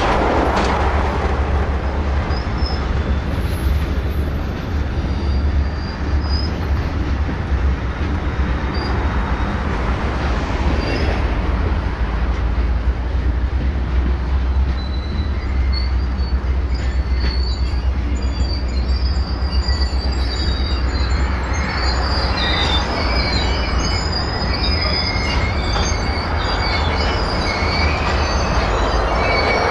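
BNSF freight train cars rolling past with a steady rumble, their wheels squealing as they take the turnout onto the yard lead track. The squeal is scattered at first and becomes louder and more continuous in the second half.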